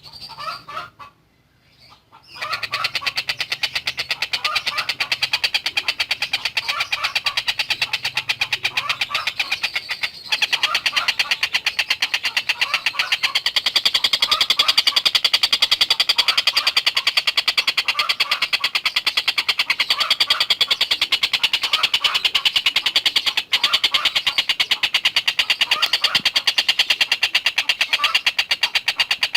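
Tengkek buto bird giving a long, loud, fast rattling chatter of rapidly repeated notes. It starts about two seconds in, after a brief silence, and barely pauses throughout.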